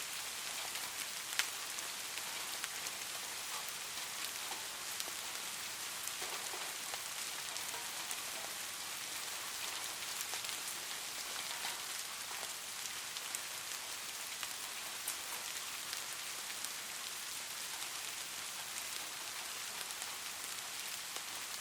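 Light rain falling steadily, a continuous hiss with many small drops ticking, one sharper drop a little over a second in.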